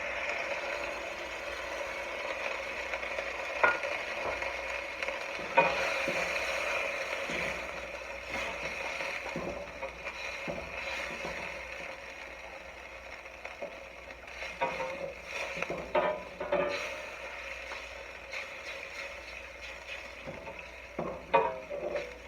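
Cornstarch-and-soy-sauce slurry sizzling in a pot on high heat, heating toward a boil to thicken into sauce. A spoon stirs and scrapes against the pot, with sharp knocks about three and a half and five and a half seconds in and bursts of scraping later on. The sizzle eases off after about eight seconds.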